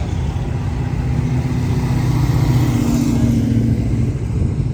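A car engine running with a steady low drone. It grows louder about two seconds in and eases off near the end.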